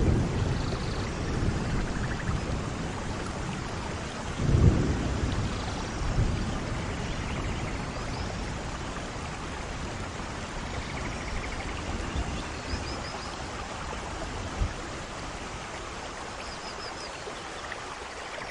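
Steady rain with low rolls of thunder. The thunder is loudest about four and a half seconds in, with a smaller roll about a second later, and the rain runs on more quietly after that.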